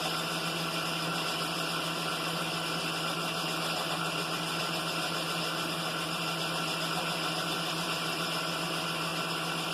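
Milling machine spindle running steadily with a boring head fitted, a constant motor hum with several steady tones over a noise haze.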